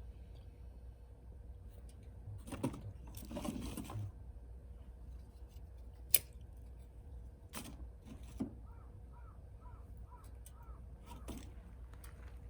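A bird calling six times in quick succession, with scattered knocks and one sharp click from things being handled, and a steady low hum underneath.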